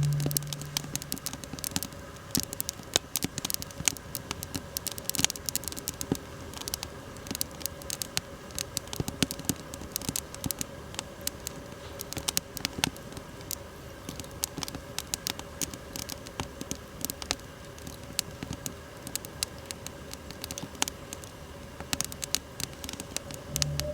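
Wood fire crackling, with irregular sharp pops and snaps throughout, over a faint steady hum.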